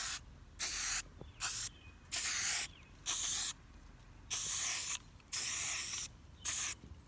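Aerosol spray can of temporary spray paint spraying onto a car's body in about eight short bursts of hiss of varying length, with brief pauses between, as letters are written.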